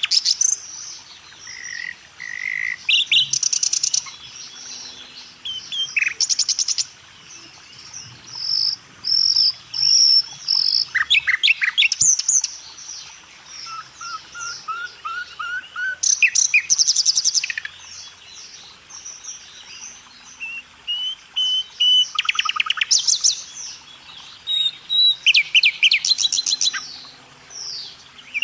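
Several songbirds chirping and singing, with fast trills coming back every few seconds, short whistled notes and a quick series of rising notes partway through.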